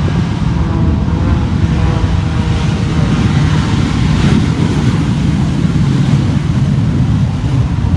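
Loud, steady roar of an aircraft's engines during an air show performance, swelling to its loudest about four seconds in.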